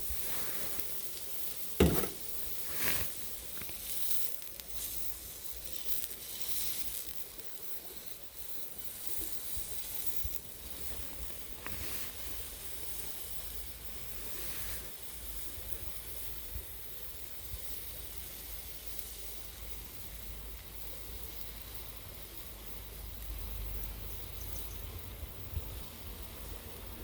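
Food sizzling and hissing in a pan over a small wood fire, with two sharp clicks about two and three seconds in, over a low steady rumble.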